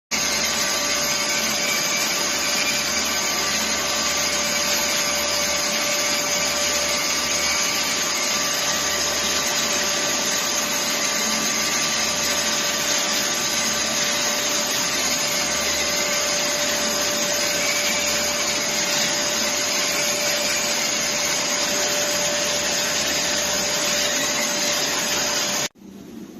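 A small electric motor-driven machine runs steadily with a whine over a rushing noise. It cuts off suddenly near the end.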